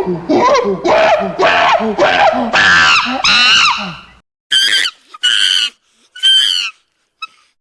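Animal cries: a rapid run of about six loud squealing calls, then, after a sudden break, three shorter, higher-pitched cries.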